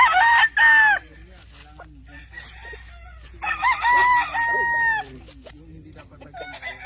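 Roosters crowing twice: one crow right at the start and a second, longer one about three and a half seconds in, each holding a steady pitch before falling away. Softer calls can be heard between the crows.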